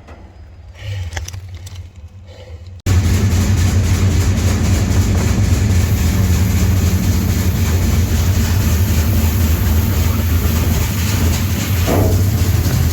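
Moving freight train heard from aboard a car: a loud, steady rumble and rail noise that starts abruptly about three seconds in, after a quieter stretch with a few clicks.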